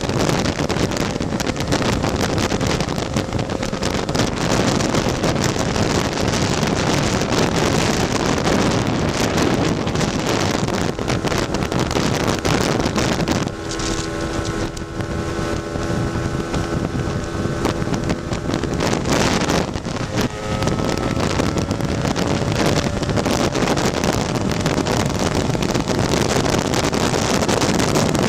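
Tuned Lambretta two-stroke single-cylinder scooter engine running at road speed, under heavy wind rush on the microphone. About halfway through, the wind eases for several seconds and the engine's steady note comes through more clearly.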